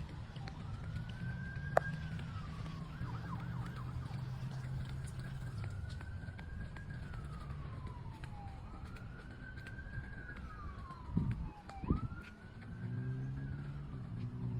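Emergency vehicle siren wailing: a slow rising-and-falling tone that repeats four times, over a steady low engine hum.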